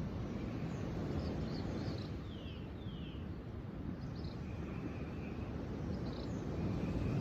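Outdoor nature ambience: a steady low rushing noise with small birds chirping over it, including two quick falling chirps about two and a half seconds in. A faint thin, even trill comes in around the middle and again near the end.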